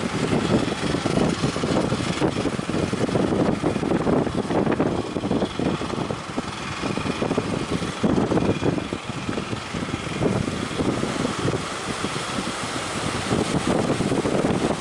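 Boat engine running steadily, mixed with strong wind buffeting the microphone and the wash of waves.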